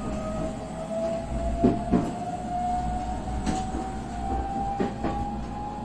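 JR West 125 series electric railcar running, its motor whine rising slowly in pitch as it picks up speed. Wheels click over rail joints a few times, some clicks in quick pairs.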